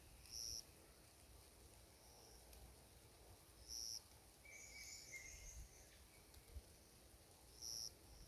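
Wild birds calling faintly in a forest: one short, high note repeated three times, about four seconds apart, and a brief warbling phrase from a second bird just past the middle.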